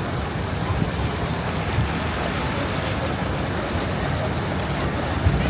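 Wind buffeting the microphone, an uneven low rumble over a steady wash of outdoor noise.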